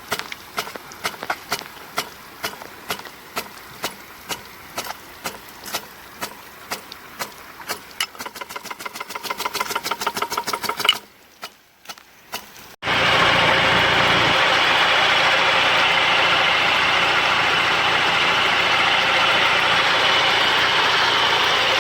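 Water-driven hose-reel irrigator ticking in a steady click rhythm that speeds up to about five clicks a second, then stops. After a short break, a steady loud rush of water spray.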